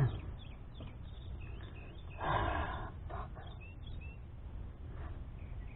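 Quiet outdoor background with faint bird chirps and one brief soft human vocal sound, like a sigh or murmur, about two seconds in.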